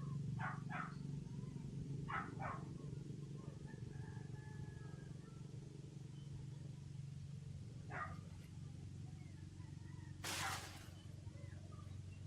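An animal giving short calls in pairs, twice early on and once more later, over a steady low hum; a brief hiss about ten seconds in.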